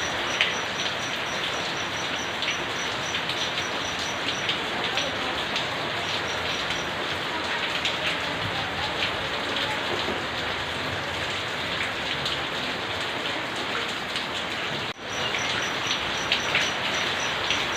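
Steady rain falling, with many drops pattering and ticking on nearby surfaces. The sound drops out briefly about fifteen seconds in.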